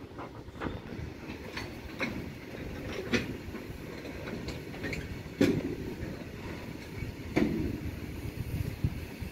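Indian goods train of covered wagons rolling past: a steady rumble of wheels on rail, with irregular metallic clanks, the loudest about five and a half seconds in.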